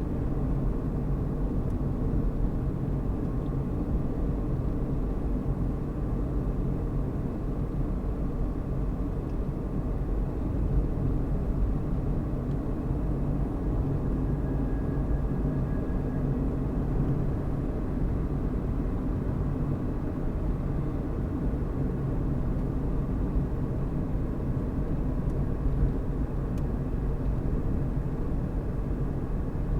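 Car driving at a steady speed: a continuous low rumble of engine and road noise.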